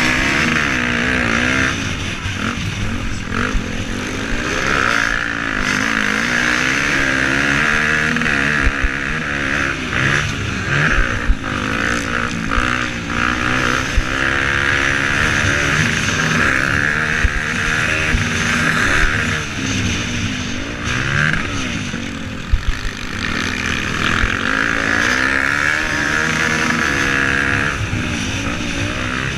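Several motocross bikes racing, their engines revving up and down in pitch as they accelerate and back off, with scattered short knocks.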